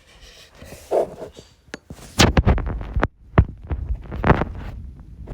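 A quick cluster of heavy, dull thumps and knocks about two seconds in, followed by a few single knocks, close to the microphone.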